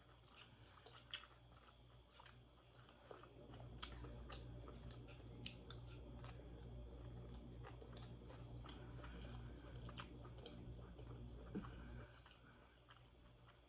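Faint close-up chewing and biting on crispy fried parrotfish, with scattered small crunches and clicks over a low steady hum.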